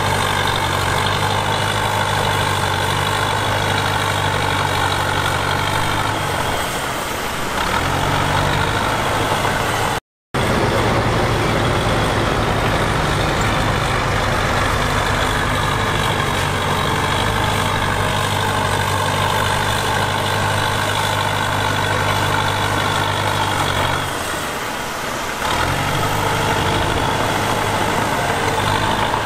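Heavy diesel engine of earthmoving machinery running steadily. It eases off briefly twice, about a quarter of the way through and again near the end, then picks back up. The sound cuts out for a moment about ten seconds in.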